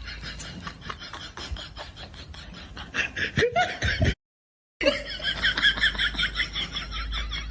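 Rapid, pulsing laughter. It breaks off into a brief dead silence about four seconds in, then starts again.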